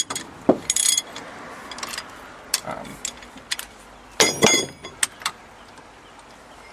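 Metal clinks and clanks from a 3/4-inch drive ratchet with a long extension and a 1/2-inch adapter being fitted and worked on a fastener that is still tight. There are a handful of separate ringing strikes, with the loudest cluster about four seconds in, then it goes quiet.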